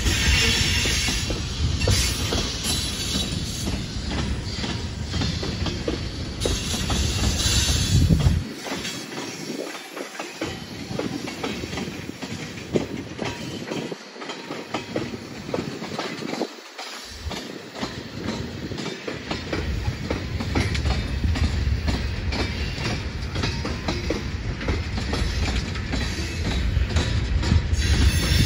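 Tank cars of a freight train rolling past: a steady rumble of wheels on rail with rapid clicking over the rail joints. The low rumble thins for a while from about eight seconds in, then builds back up toward the end.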